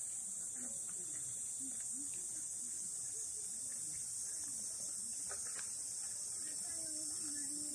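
Steady high-pitched chorus of insects singing, with faint low sounds underneath.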